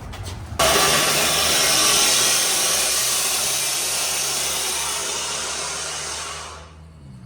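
A loud, steady hiss that starts abruptly about half a second in and fades away near the end, over a low engine hum.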